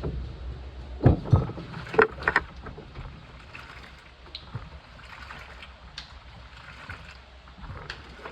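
Washing machine running, with water sloshing in the drum over a steady low hum. A few sharp knocks come about one and two seconds in.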